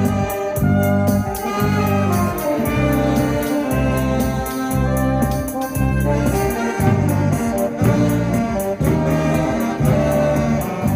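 Live band music with brass or saxophone melody over a bass line that pulses about twice a second, with steady cymbal ticks.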